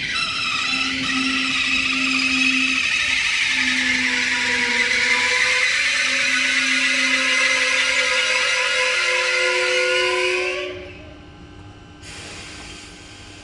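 Trenord double-deck electric suburban train squealing as it brakes into the platform, with several tones falling in pitch as it slows. The squeal stops abruptly about eleven seconds in as the train halts, and a faint hiss follows near the end.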